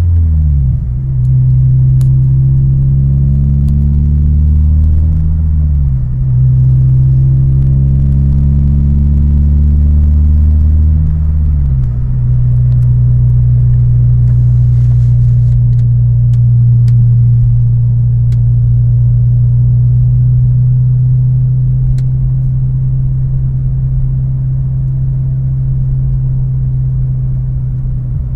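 Peugeot 306 GTI-6's 2.0-litre four-cylinder engine running through a custom 60 mm exhaust with two centre boxes and a Proex-copy rear muffler, giving a deep, steady drone. Its pitch creeps up and drops back about 6 seconds and 12 seconds in, then holds steady.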